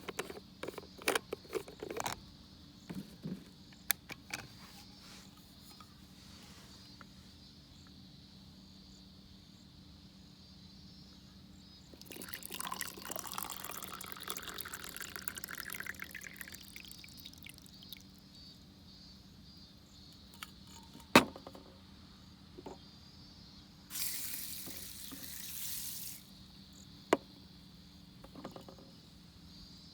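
Water poured into a small container, the pitch of the pour rising steadily as it fills, and later a second, shorter pour. Scattered clicks and two sharp knocks of utensils being handled.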